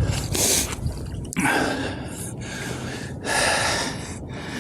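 A man breathing hard, a few heavy gasps and exhalations close to the microphone.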